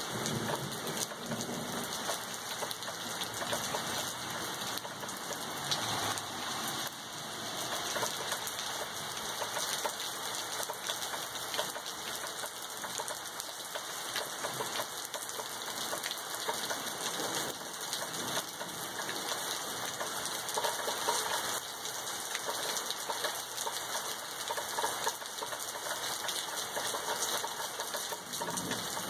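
Steady rain falling in a thunderstorm: an even hiss of many drops that keeps the same level throughout.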